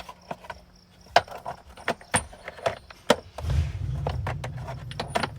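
Metal tools clinking and clanking as they are handled and sorted, a dozen or so sharp knocks over about three seconds. From about three and a half seconds in, a steady low mechanical rumble joins in.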